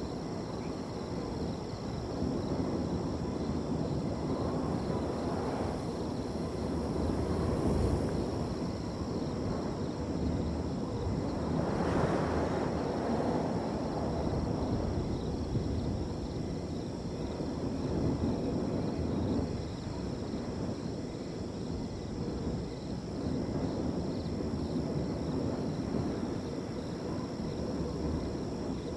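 Wind blowing across an open field in gusts that swell and ease, the strongest about twelve seconds in, over a steady high trilling of crickets.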